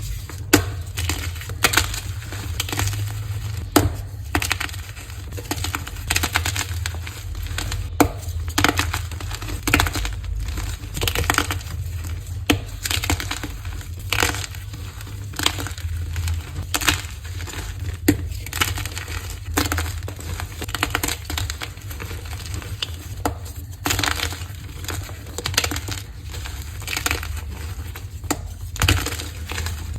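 Dyed blocks of gym chalk being crushed, a dense run of irregular crunches and crumbling crackles with some louder cracks, over a steady low hum.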